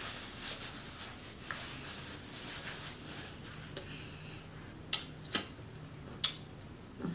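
Close-miked eating sounds: wet chewing and lip smacks, with a few sharp mouth clicks about five to six seconds in.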